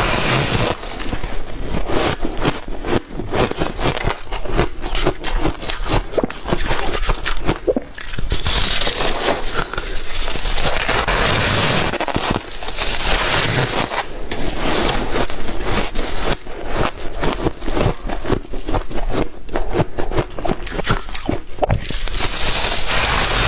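White ice being bitten and chewed up close, a dense run of crunching and crackling, with a few louder, grittier crunches about 8 s in, around 13 s and near the end.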